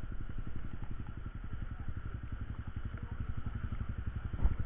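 Motorcycle engine running steadily, a rapid even pulse of firing strokes.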